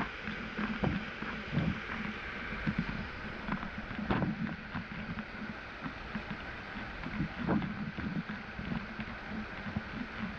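Waterfall rushing into a pool, a steady noise of falling water with irregular splashes throughout.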